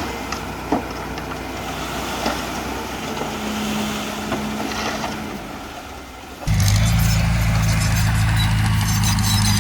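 Heavy construction machinery's diesel engine running, with a couple of short knocks over a quieter, rougher engine sound. About six and a half seconds in, the sound switches abruptly to a louder, steady engine note.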